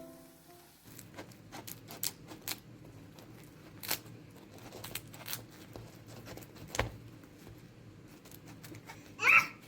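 Scattered light clicks and taps of small objects being handled, with a short, louder ringing clatter near the end.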